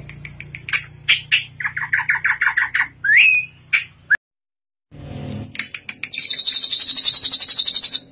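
Drongo singing: sharp clicks and rapid chattering notes, a loud rising whistle about three seconds in, then after a brief total dropout a loud, fast buzzing trill for the last two seconds.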